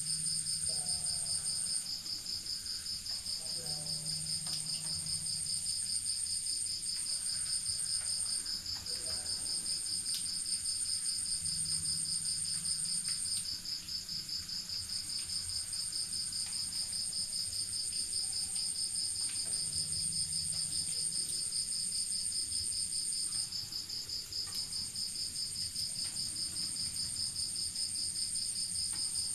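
Crickets chirping in a steady night chorus: one fast, even high trill runs throughout, while a second, higher trill stops and starts again several times.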